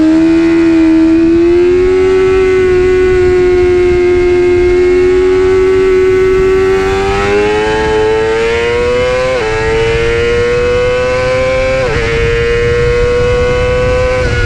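Honda CBR600RR's inline-four engine running at high revs, a loud steady wail whose pitch climbs slowly, broken by brief dips in pitch three or four times in the second half.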